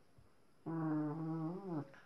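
A dog giving one drawn-out vocal call during play, about a second long, holding a steady pitch before dropping at the end.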